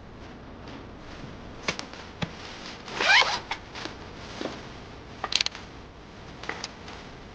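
Pool cue and balls on a nine-ball table around a jump shot: scattered sharp clicks, a loud rasping swish with a rising pitch about three seconds in, then a quick run of ball clacks a little after five seconds.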